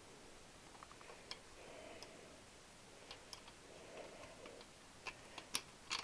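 Scattered light metallic clicks and taps of hand tools and small parts being handled on the motorcycle engine, with a few sharper clicks near the end.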